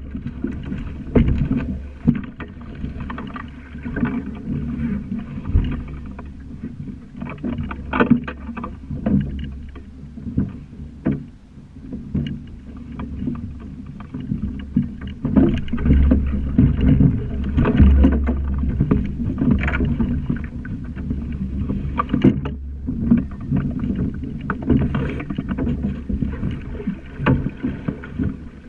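Sailing dinghy under way: water rushing and slapping against the hull, with frequent irregular knocks and a heavy low rumble that swells about halfway through.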